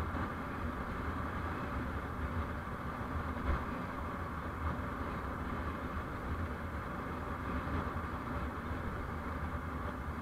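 Steady rumble and road noise of a vehicle on the move, with a low hum underneath and no sudden events.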